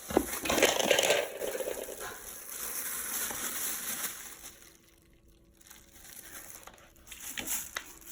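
Crinkling and rustling as a kitten moves about inside a trash can, loudest in the first two seconds, then fading, with a few small clicks near the end.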